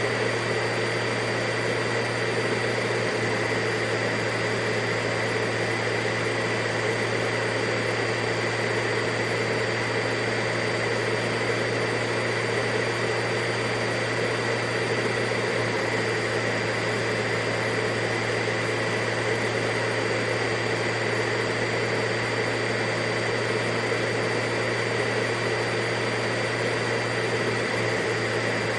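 Vacuum cleaner running steadily and without change: an even rush of air over a low motor hum, with a thin high whine on top.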